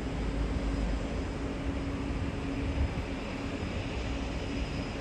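Distant engine drone from a de Havilland Otter floatplane waiting on the harbour to take off: a steady hum over an even haze, with a low rumble underneath.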